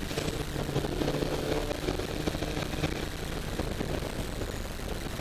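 Mazda RX-7 FD3S's twin-turbo 13B rotary engine running as the car drives on track, heard from inside the cabin through a camera microphone that distorts the sound. It holds steady throughout.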